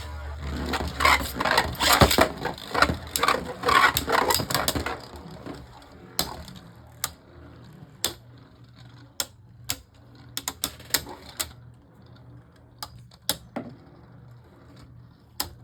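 Spinning Beyblade Burst tops, Harmony Pegasus among them, clashing and rattling against each other in a plastic stadium. The clicks are dense for about five seconds, then become sparse and scattered as the tops lose spin, ending in a Survivor finish.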